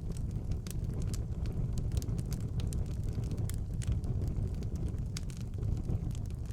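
Wood fire burning in a fireplace: a steady low rumble of flames with frequent sharp crackles and pops of the burning logs.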